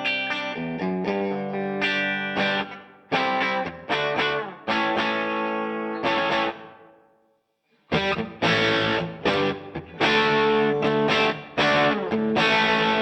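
Electric guitar played through the DVII amplifier: chords and single notes ring out and die away about seven seconds in, then denser, brighter playing starts again a second later.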